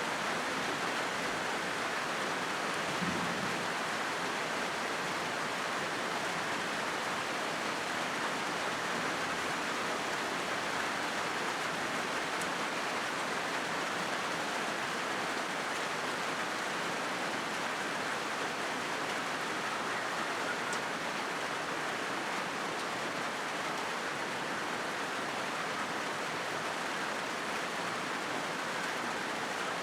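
Steady rain drumming on a corrugated zinc sheet roof: an even, unbroken hiss of many drops with no pauses.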